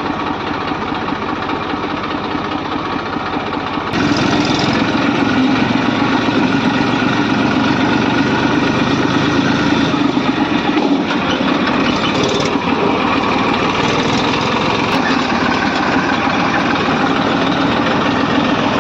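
Massey Ferguson 1035 tractor's 2400 cc three-cylinder diesel engine running; about four seconds in it gets louder and stays at the higher level.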